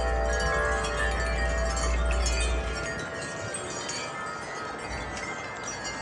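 Wind chimes ringing with many overlapping tones in a strong gust, with wind rumbling on the microphone. About three seconds in the gust drops off and the rumble stops, and the chimes ring on more softly.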